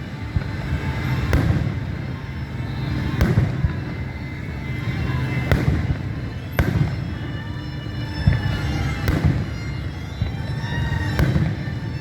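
Fireworks bursting, with sharp bangs every second or two, over music playing.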